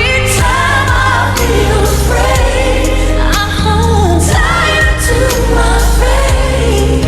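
Live pop ballad: a female lead voice singing sustained, wavering notes over a band with a heavy bass line and cymbal crashes, with backing voices in support.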